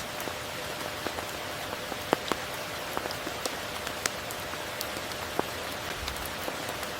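Steady tropical rain, an even hiss with individual drops landing close by as scattered sharp ticks, a couple of louder ones about two seconds in.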